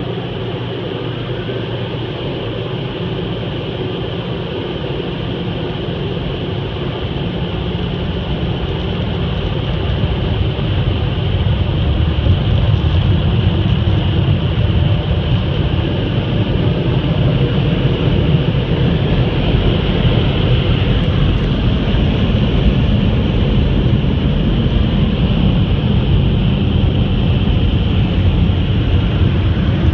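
Automatic conveyor car wash machinery running: a steady rush of spray and air over a deep rumble, growing louder about ten seconds in and then holding.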